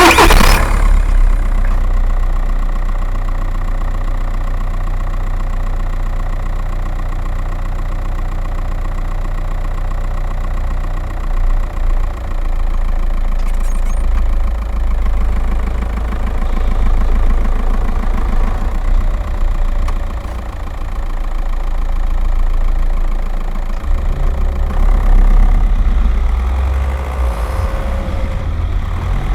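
Skoda Octavia 1.9 TDI's four-cylinder turbodiesel engine firing up with a loud burst at the start, then idling steadily.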